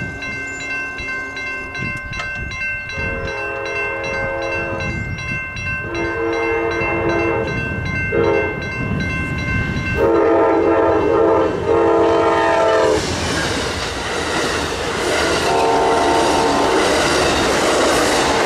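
Railroad crossing bell ringing steadily while an approaching Amtrak passenger train sounds its horn for the crossing: two long blasts, a short one and a long one, then one more blast. Past the middle, the rumble and clatter of the train's wheels on the rails takes over as the double-deck Superliner cars pass over the crossing.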